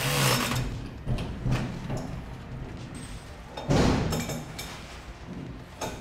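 Knocks and thuds of work on an espresso machine assembly line: a rush of noise at the start, a loud thud just before the 4-second mark, and a sharp knock near the end.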